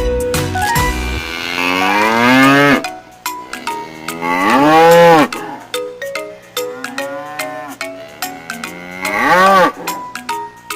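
Cow mooing three times: two long calls in the first half, the second the loudest, and a shorter one near the end, over light children's music of short struck notes.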